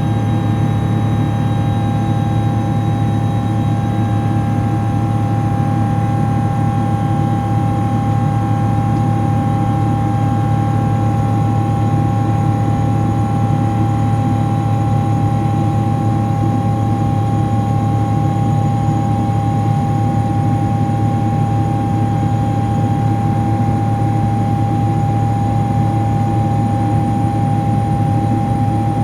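Cabin noise of a Boeing 777-200ER in flight: the steady drone of its GE90-92B turbofan engines, a low hum with a constant high tone over it.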